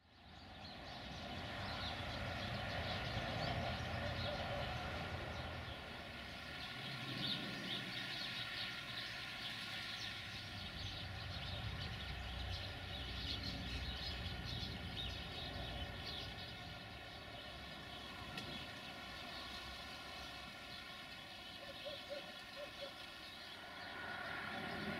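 A train running, heard from a distance as a steady drone with several held tones, fading in at the start.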